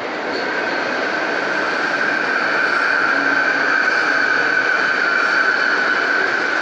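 Renfe Media Distancia passenger train running past close by along the platform: steady rolling rumble with a steady high-pitched whine, getting louder over the first couple of seconds.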